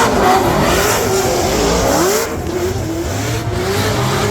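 Drift car's engine revving, its pitch rising and falling repeatedly over a steady hiss, which eases about two seconds in.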